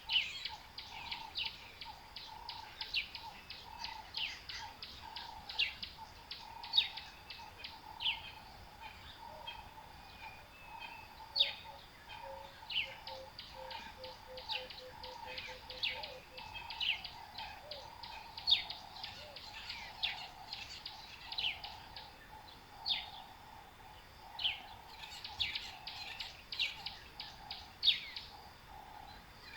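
Wild birds calling: a dense run of short, sharp, high chirps, several a second, over a fainter, lower pulsing call.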